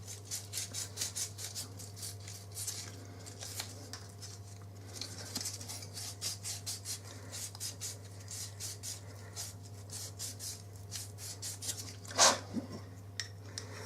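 Hand sanding with fine 240-grit sandpaper on a rear guide to ease its fit on the cylinder: quick, even rubbing strokes, several a second, over a faint steady hum, with one louder brief sound near the end.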